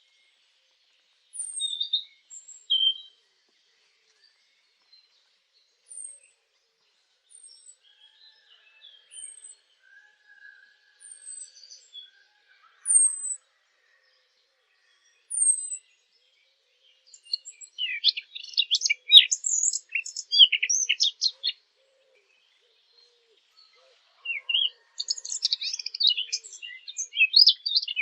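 Songbirds calling and singing: thin, high downslurred notes repeated every second or two, with a few lower chirps, then about halfway through two long bursts of rapid, busy twittering song.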